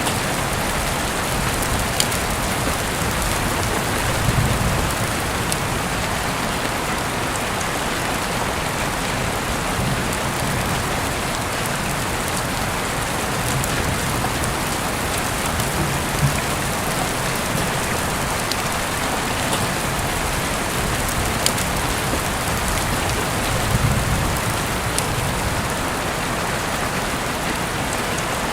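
Heavy rain falling steadily, with sharp individual drop ticks scattered through the hiss and a few brief low rumbles.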